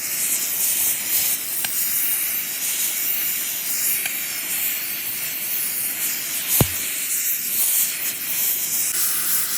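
Steady hissing noise with a single sharp knock about six and a half seconds in.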